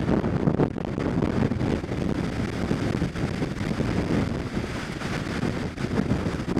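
Strong gusty wind buffeting the microphone: a low, uneven rumble that swells and eases with the gusts.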